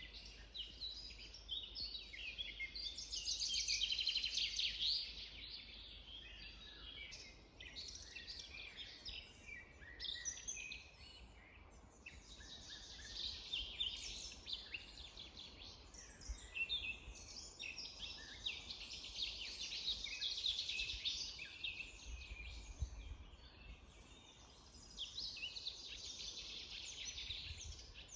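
Several birds singing and calling together, a dense chorus of quick chirps and trills that swells loudest a few seconds in and again in the middle, over a faint low rumble.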